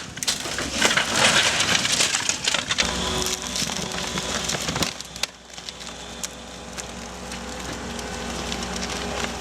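Wood debris cracking and splintering in the first three seconds or so, then a steadier, quieter stretch, with background music underneath.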